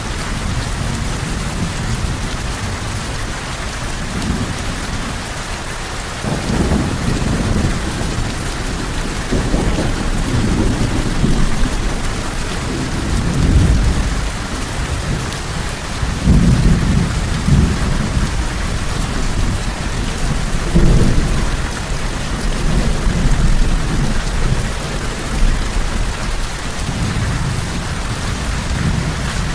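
Steady heavy rain with low rolling thunder, which swells and rumbles repeatedly from about six seconds in.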